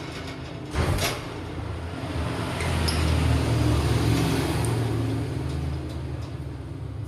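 A road vehicle passing, its low rumble swelling to a peak a few seconds in and then fading away. Two sharp knocks about a second in.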